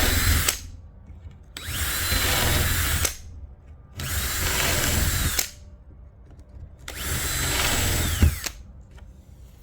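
Power drill boring out pilot holes in a wooden board: the motor winds up in pitch with each trigger pull and winds down on release. One run ends about half a second in, then three more runs of about a second and a half each follow with short pauses between them.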